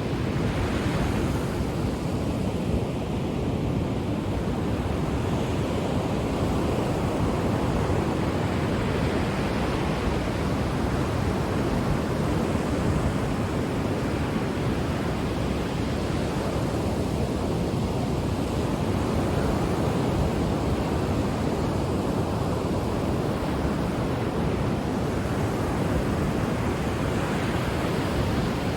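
Ocean surf: a steady rush of waves breaking and washing on the shore, swelling and easing gently over several seconds.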